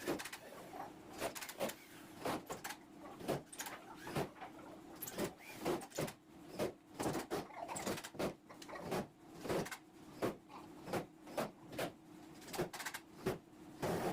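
A quick, irregular series of sharp knocks, about two a second, over a faint steady hum.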